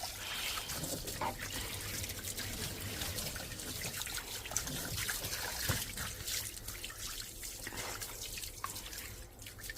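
Water trickling and dripping into a just-unblocked outside drain, with small scattered drips, as the drain now flows away freely.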